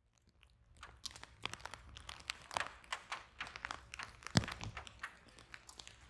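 Wood fire in a fireplace crackling, with irregular sharp pops over a low steady rumble. It fades in over the first second, and the loudest pop comes about four seconds in.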